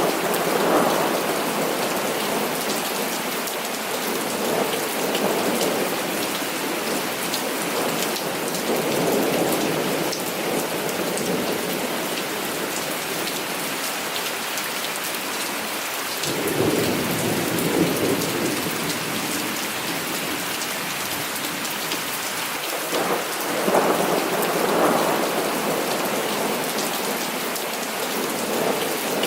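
Heavy rain falling steadily, with rolling thunder that swells up near the start, again just past the middle, and once more near the end.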